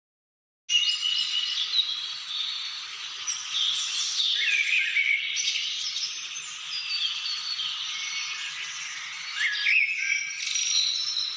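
Many birds chirping and whistling together in a dense, overlapping chorus of short calls and quick pitch glides, starting abruptly after a moment of dead silence.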